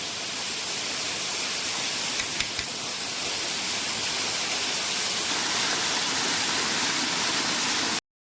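Steady rushing water of a waterfall, with three quick knocks a little over two seconds in. The sound cuts off suddenly near the end.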